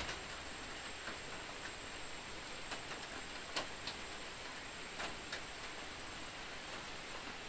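Steady rain falling on open water and forest foliage, an even hiss with a few scattered sharp ticks of drops landing close by.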